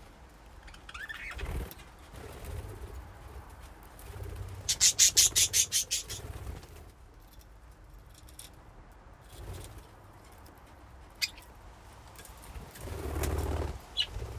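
Budgerigars in a colony cage. About five seconds in there is a quick burst of wing flapping, a rapid run of about ten sharp beats lasting just over a second. There are a few short chirps, a single sharp click later on, and a brief chirp near the end.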